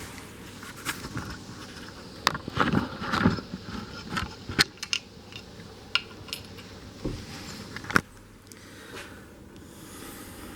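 Metal tools and parts clinking and scraping on a workbench as they are handled: a string of small knocks and clinks, the sharpest a single knock about eight seconds in.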